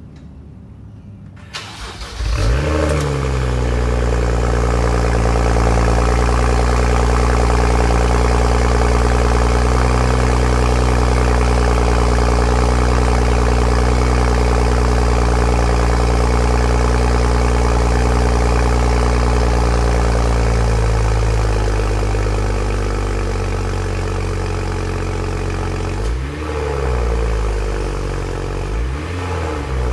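BMW N55 turbocharged inline-six in a 2011 135i with stock exhaust, cold-started: the starter cranks briefly and the engine catches about two seconds in with a short rev flare, then holds a steady fast cold idle. The idle settles lower about two-thirds through, and the engine is revved briefly twice near the end.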